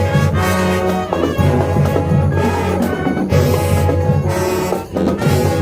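High school marching band's brass section playing loud sustained chords over a heavy bass. The phrases are broken by short breaks about a second, three seconds and five seconds in.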